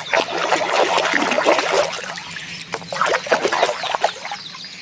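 Water splashing and trickling as a muddy plastic toy animal is washed by hand, in two busy spells with a short lull between.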